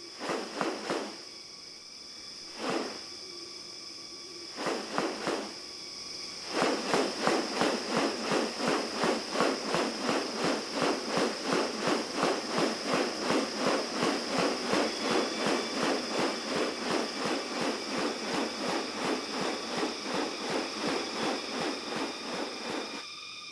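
Tropical rainforest ambience with a steady high-pitched insect drone. A few separate calls or swells come in the first five seconds. From about six seconds in, a fast rhythmic pulsing at roughly two to three beats a second sets in and keeps going until just before the end.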